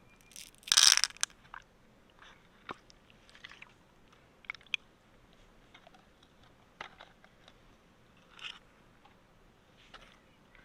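Freshwater pearl mussel shell being handled and opened: a loud crunch about a second in, then scattered small clicks and scrapes of shell.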